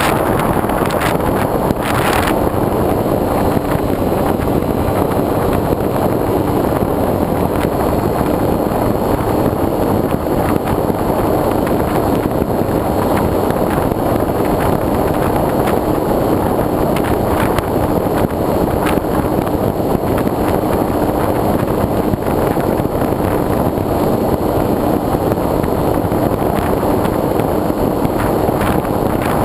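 Loud, steady wind rush on the microphone of a wing-mounted GoPro on a foam RC airplane in flight, with the steady hum of the plane's motor and propeller underneath. A few crackles in the first two seconds.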